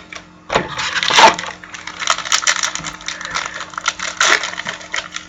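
Trading card packaging crinkling and cards being handled: a dense run of crackles and clicks starting about half a second in.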